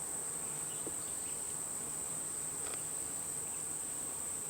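Honeybees humming around an opened hive under a steady high-pitched shrill, with a couple of faint clicks.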